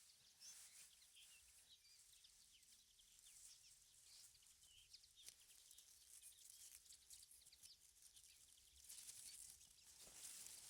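Near silence in the open, with faint, scattered short high chirps, typical of small birds calling at a distance.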